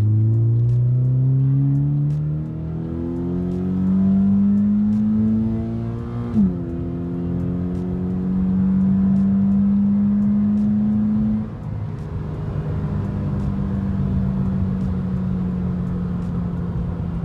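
Toyota 86's 2.0-litre flat-four boxer engine, breathing through a newly fitted Injen short ram intake, heard from inside the cabin as the car accelerates through the gears. The engine note climbs in pitch and drops at upshifts about two and a half and six seconds in, with a short click at the second shift, then climbs slowly again. The throttle lifts about eleven and a half seconds in, and the engine settles to a steady cruising note.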